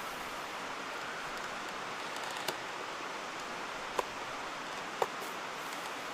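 Steady rushing of a mountain stream, with three short sharp clicks about two and a half, four and five seconds in.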